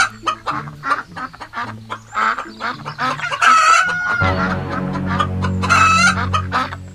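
Chickens clucking in many short repeated calls, with a low steady hum joining about four seconds in.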